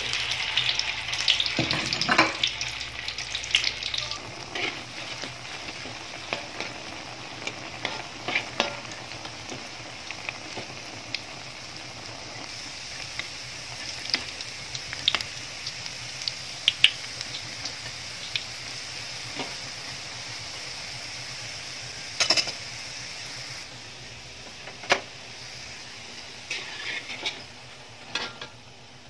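Sausages sizzling as they fry in hot oil in a metal wok, loudest in the first few seconds, with a metal spatula scraping and clinking against the wok now and then as they are turned.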